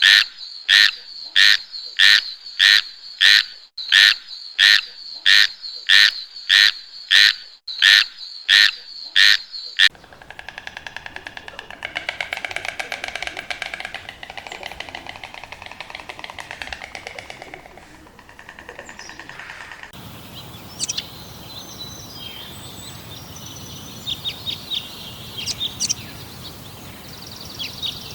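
A run of edited animal calls. First a loud, high call repeated about one and a half times a second for about ten seconds. Then a fast, pulsing trill. After about twenty seconds, short high bird chirps over a steady hiss.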